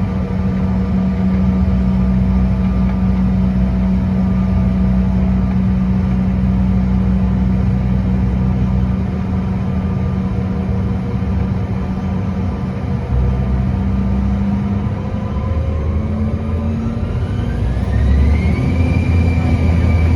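Cabin noise of a CRJ-900 with its two rear-mounted GE CF34 turbofans running at idle: a steady hum. About fifteen seconds in, the engines begin to spool up with a rising whine and the sound grows louder near the end as thrust is brought up for takeoff.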